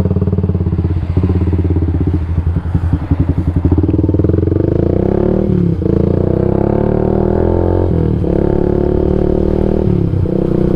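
Yamaha MX King 150's single-cylinder four-stroke engine breathing through an aftermarket Rob1 TGA exhaust, pulling away and accelerating. The note rises and drops briefly three times in the second half as it shifts up through the gears.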